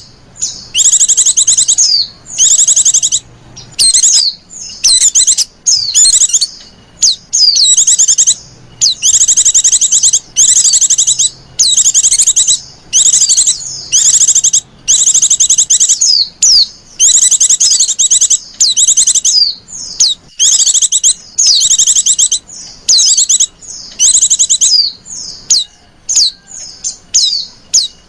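Female white-eye (pleci) calling in high, fast-trilled phrases about a second long, one after another with short gaps. These are the clingy 'lenjeh manja' calls used as a lure to draw in other white-eyes.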